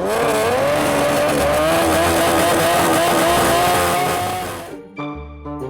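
Drag racing engine at full throttle, its pitch climbing steadily as the vehicle accelerates down the strip. It cuts off suddenly near the end and music begins.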